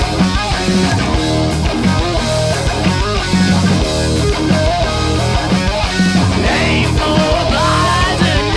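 Live punk/grunge rock band playing loud distorted electric guitars, bass and drums. A guitar bends up to a high squealing note near the end.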